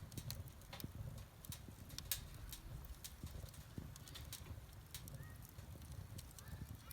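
Campfire burning with irregular sharp crackles and pops over a low, steady rumble.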